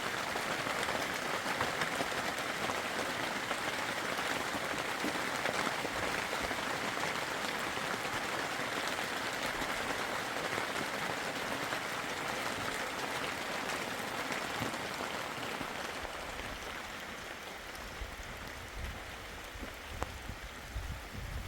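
Steady, heavy rain hiss that eases a little about three-quarters of the way through, with low rumbling knocks near the end.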